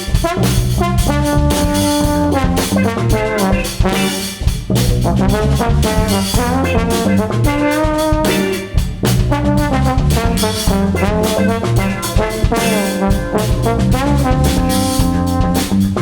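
Trombone playing a sliding melody line over a drum kit beat, part of a live band's instrumental section.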